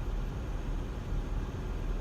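Steady rushing of a mountain stream, an even noise with a deep low rumble and no breaks.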